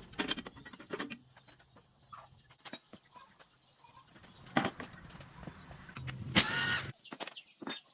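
Workshop sounds of parts and tools being handled: scattered knocks and clicks, then a short burst of a power tool running about six seconds in, stopping abruptly.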